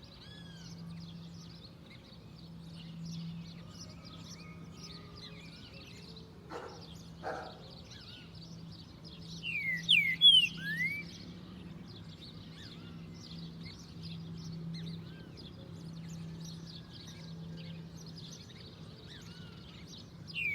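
Green-winged saltator (trinca-ferro) singing one loud phrase of short, sloping whistled notes about halfway through. Behind it are many faint high chirps from other small birds and a steady low hum, with two brief knocks about a third of the way in.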